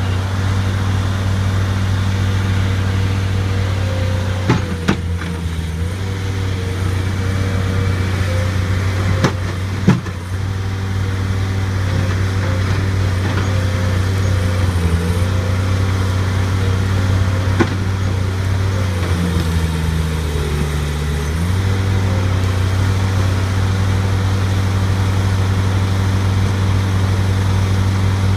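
Bobcat skid-steer loader's engine running steadily while working, with a few sharp metallic clanks and a brief change in the engine note about two-thirds of the way in.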